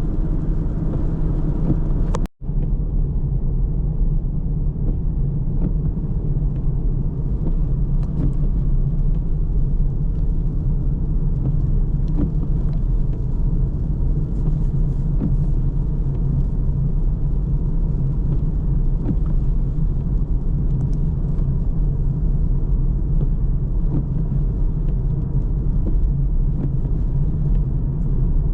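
Car driving at steady speed: a low, even rumble of tyres on the road and the engine. The sound cuts out for a moment about two seconds in, then carries on unchanged.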